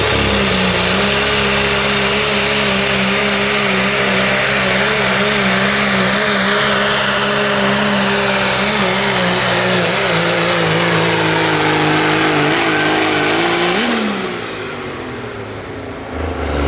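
Diesel 4WD pickup truck engine held at high revs under full load while pulling the sled, with steady engine pitch. About fourteen seconds in, the revs drop quickly and the engine backs off as the run ends.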